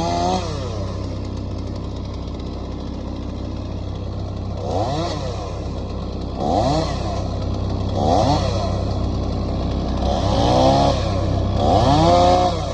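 Stihl two-stroke chainsaw revved up and let back down about five times over a steady low engine hum, the revs coming closer together and stronger toward the end.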